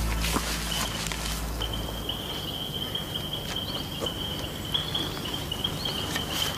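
Forest ambience: an insect trills on one high, steady note, with a few brief rustles and footfalls. A low musical drone fades out about two seconds in.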